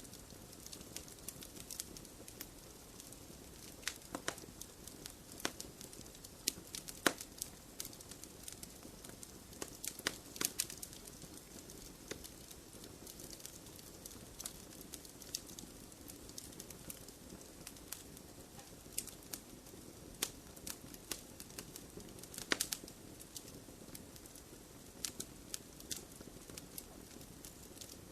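Wood fire crackling steadily, with irregular sharp pops and snaps over a soft low rush of flame; a few louder pops stand out.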